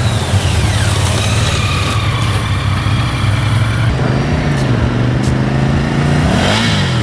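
Motorcycle engine running at low speed, revving up and dropping back twice in the last few seconds.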